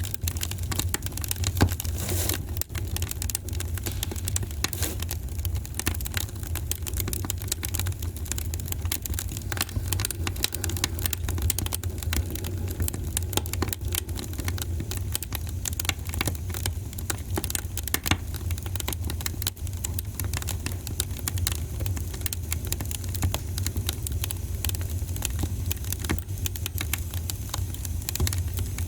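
Wood fire burning in a fireplace. Dense, irregular crackling and popping runs over a steady low rumble.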